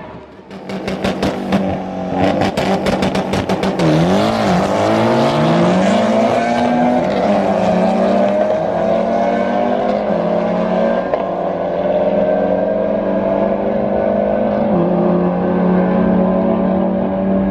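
Race car engine at a drag strip. It opens with rapid popping and crackling, the pitch swoops down and back up around four seconds in, and then the engine note climbs slowly and steadily.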